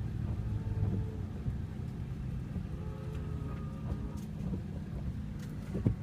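Vehicle engine idling steadily, with cattle lowing faintly a few times.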